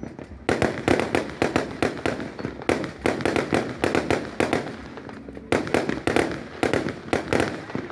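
Fireworks going off in rapid volleys of sharp bangs and cracks, with a short lull a little past the middle.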